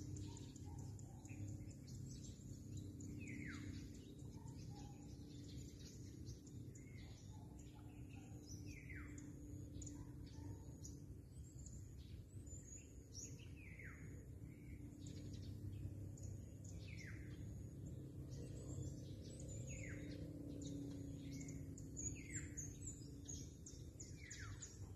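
Birds calling: a short falling whistle repeated every few seconds, with scattered high chirps in between, over a faint, steady low background noise.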